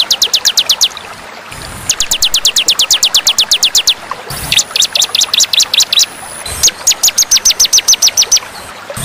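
Songbird singing rapid runs of high, downward-sweeping notes, about ten a second, in phrases of about two seconds with short breaks. The sections start and stop abruptly, as in an edited training track for cage birds.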